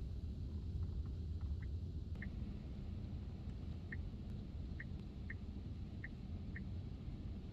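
Storm wind buffeting the microphone as a steady low rumble. Over it come about seven short, high chirps at irregular intervals.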